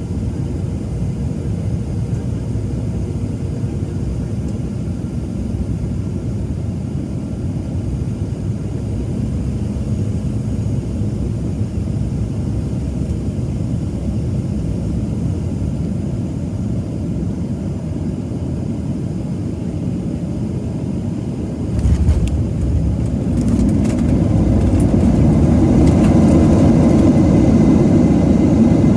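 Boeing 737-700 airliner landing: a steady low rumble, then a sudden jolt about three-quarters of the way through, after which the noise grows louder, fitting touchdown and the engines spooling up for reverse thrust.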